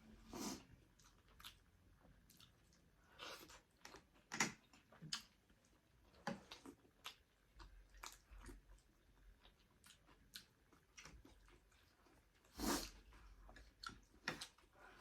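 Quiet chewing and mouth sounds of someone eating, a scattering of short wet smacks and clicks, with a louder one about four seconds in and another near the end.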